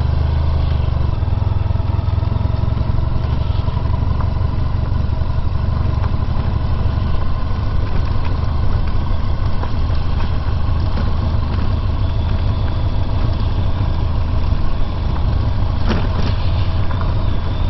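Honda VFR1200X Crosstourer's V4 engine running at a steady speed while riding, its low engine note loudest and steady throughout.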